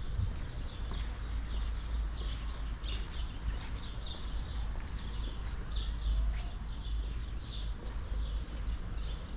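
Small birds chirping, a quick string of short high calls one after another, over a steady low rumble.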